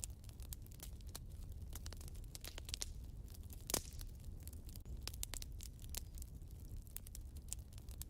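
Wood fire in a fireplace crackling: irregular snaps and pops over a low steady rumble, with one louder pop near the middle.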